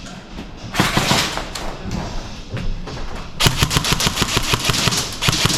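Airsoft guns firing: a short cluster of shots about a second in, then a long rapid string of full-auto fire from about three and a half seconds in.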